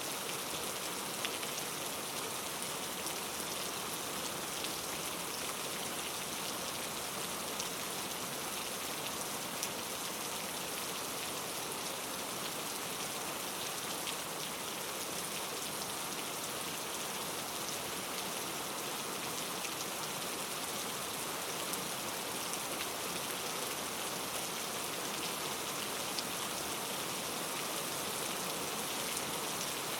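Steady rain, a constant hiss with scattered individual drops ticking on a surface.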